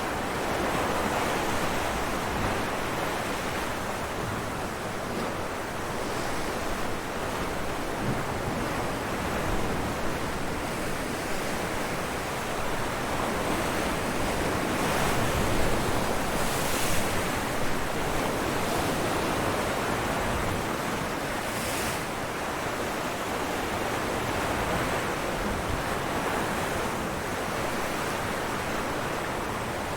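Ocean waves breaking on rocks: a continuous wash of surf, with sharper splashes of spray around the middle of the stretch.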